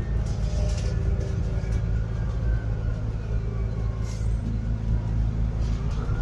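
Scania N280UD biogas double-decker bus under way, heard from inside the cabin: a steady low engine rumble with a faint whine that rises and falls in pitch midway, and a few brief rattles.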